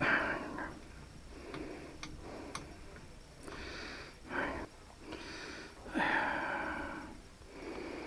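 Breathing close to a headset microphone, a run of breaths about a second or two apart, with a few light clicks of parts being handled in between.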